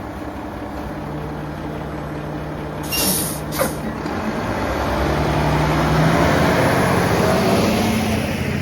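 Mack LR garbage truck's engine running, with two short air hisses of the air brakes about three seconds in; the engine then revs up and runs louder and higher until the sound cuts off near the end.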